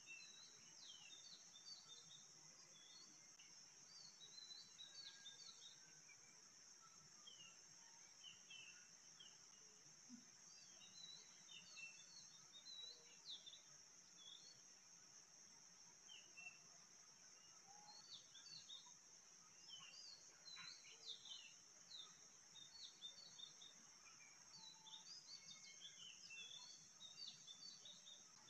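Faint birds chirping: many short, high chirps scattered throughout, over a steady high-pitched hiss.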